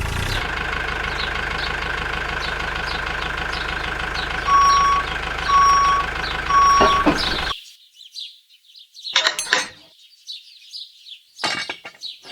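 Tractor engine running steadily. Over it come three short beeps about a second apart, and the engine sound cuts off abruptly about two-thirds of the way through.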